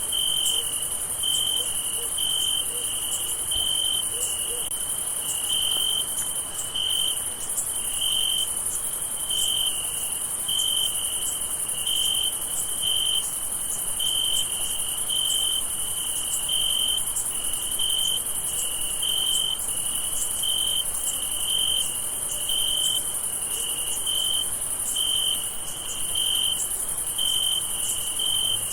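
Night chorus of crickets: one cricket chirping in an even rhythm, a little more than once a second, over a steady high-pitched trill of many insects.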